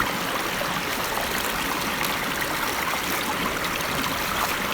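Stream flowing steadily, a constant rush of running water.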